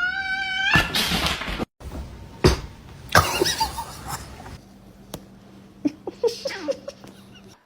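A cat's drawn-out meow rising in pitch, breaking off just under a second in, followed by a short hissing burst and then scattered short noises over a faint steady hum.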